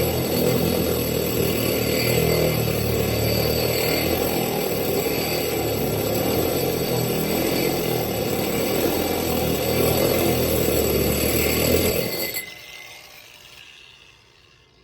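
Electric drill running steadily as it cuts a hole through window glass, then switched off about twelve seconds in and winding down.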